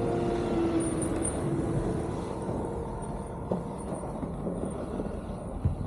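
Steady vehicle road and engine noise, with a small knock about three and a half seconds in and another near the end.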